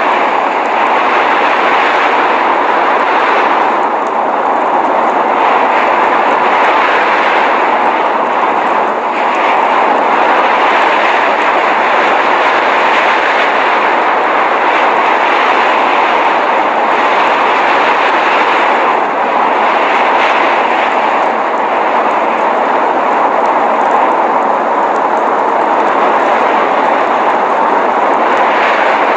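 Steady, even rushing noise of a blizzard ambience, a constant hiss like wind-driven snow with no gusts, breaks or distinct events.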